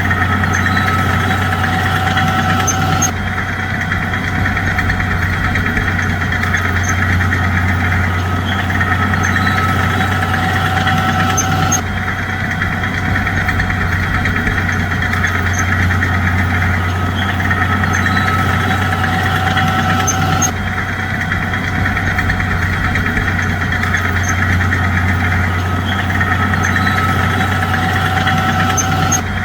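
Bulldozer's diesel engine running steadily with a deep hum. The higher mechanical noise over it changes abruptly every several seconds.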